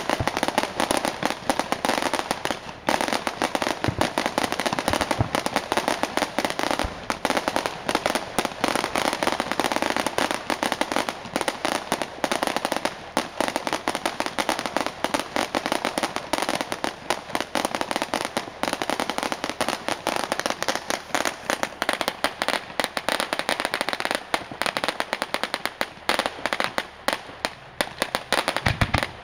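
Fireworks display: a dense, continuous crackle of many small bangs and pops in quick succession, hardly letting up.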